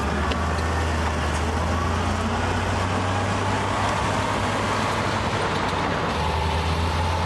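Diesel engine of heavy earthmoving machinery running steadily: a continuous low drone with a faint whine above it.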